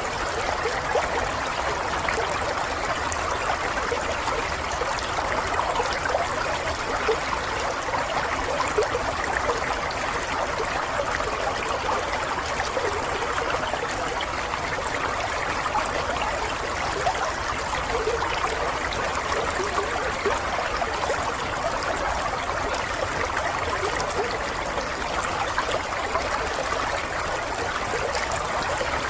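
Water running in a small stream, a steady babble and trickle with no let-up.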